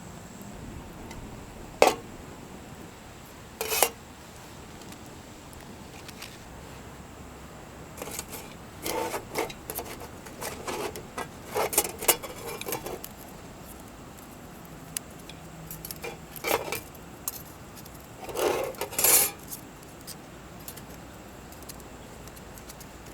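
Metal camp cookware and cutlery being handled: two single clinks, then scattered bursts of clinking and scraping with pauses between them.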